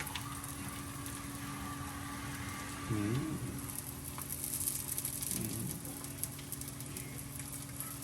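Patishapta pitha crepe batter frying in a pan with a steady sizzle, over a low steady hum. Two brief faint murmurs of voices come about three and five and a half seconds in.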